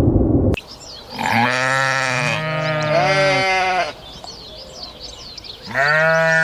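Bleating from goats or sheep: two long, overlapping calls, then a third near the end, with faint high chirps in the background. Before the calls, a loud rumbling noise cuts off abruptly about half a second in.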